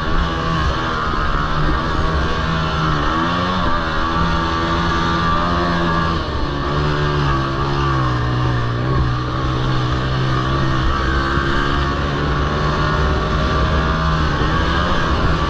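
Honda TRX90 youth quads' small single-cylinder four-stroke engines racing, their revs dropping and climbing again and again as the riders back off and get back on the throttle.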